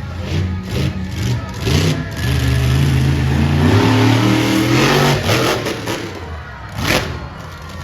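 Monster truck engine revving in several blips that rise and fall in pitch, the longest and loudest rev in the middle. A short sharp burst of sound comes near the end.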